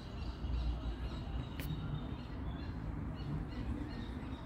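Outdoor evening ambience among trees: faint bird calls over a steady low rumble, with one short sharp click about one and a half seconds in.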